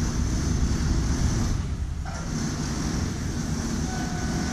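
Approaching electric-hauled express train (WAG9 locomotive), a steady low rumble with a rushing hiss. A steady high tone sets in near the end.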